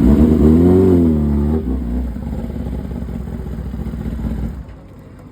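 Motorcycle engine revved once, its pitch rising and falling back, then running more quietly until it drops away near the end.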